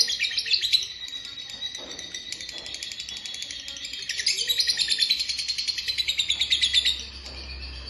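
A songbird singing a fast, chattering song of rapid short high notes, louder from about four seconds in and breaking off about a second before the end.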